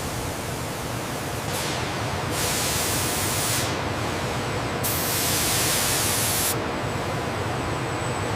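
Steady rushing noise with two louder bursts of hiss, like a spray, each lasting about a second and a half, and a faint steady high whistle under them.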